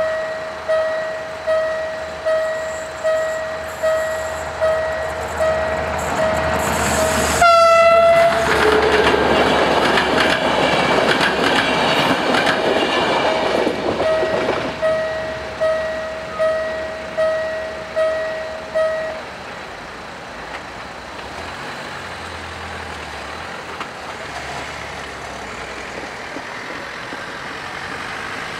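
A level-crossing warning bell dings about once a second. About seven seconds in, an InterRegio passenger train sounds a short horn blast and rushes over the crossing, its wheels rumbling for about seven seconds. Later the bell stops, leaving steady road traffic noise.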